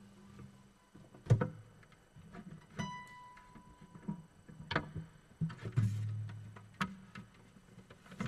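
Acoustic guitar giving a few scattered single plucked notes and knocks, with one longer ringing note about three seconds in, rather than a played tune.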